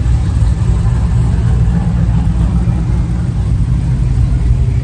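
Vehicle engine running steadily with a deep, low rumble.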